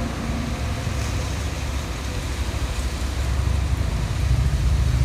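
Strong wind buffeting the microphone: a low, gusting rumble that swells about four seconds in.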